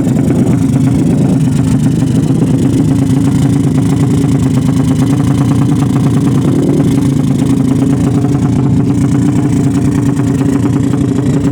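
Racing motorcycle engine running loud and steady, holding one unchanging pitch throughout.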